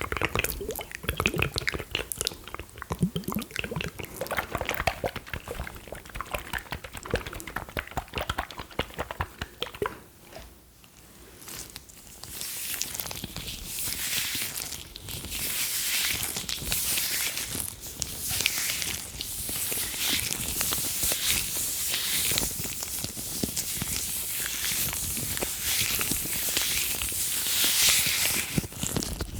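Close-miked sticky, wet mouth sounds: rapid small clicks and smacks. About eleven seconds in they stop briefly, then gloves are rubbed and stretched against the microphone, a bright crinkly rustle with repeated strokes.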